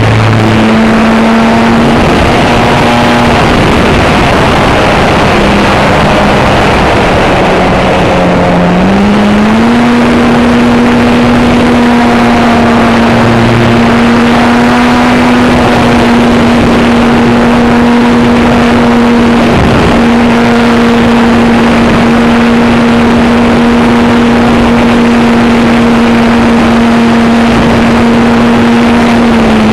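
Strong wind blasting the microphone, over the steady drone of an RC model airplane's motor. The motor's pitch steps up about nine seconds in, as if throttled up, and then holds level.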